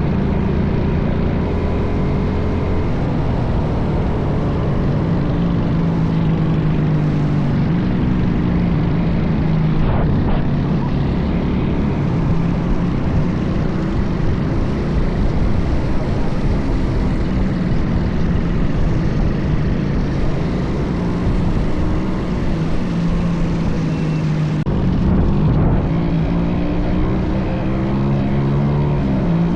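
Minibike engine running under way, its pitch rising and falling repeatedly with the throttle, over a heavy low rumble of wind on the microphone.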